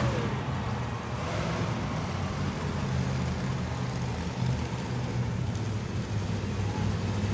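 Monster truck engine running steadily at low revs, a deep rumble with no revving.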